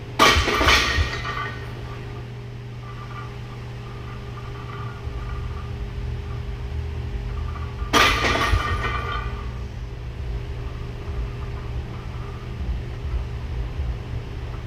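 Heavily loaded barbell with iron plates clanking against a steel power rack twice, about eight seconds apart; each is a sharp metallic clang that rings for about a second. A steady low hum runs underneath.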